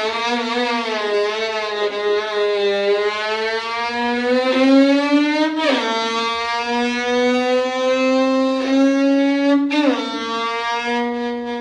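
Turismo Carretera race car engine pulling hard under acceleration. Its pitch climbs steadily and drops sharply twice, about six and ten seconds in, as it shifts up a gear each time.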